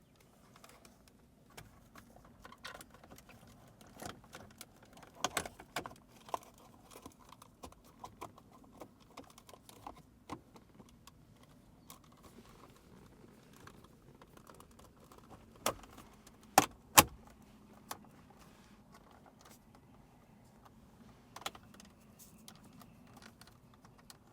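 Scattered clicks and knocks of plastic dashboard vent and trim pieces being handled and pressed back into place, with a few sharper snaps about two-thirds of the way in.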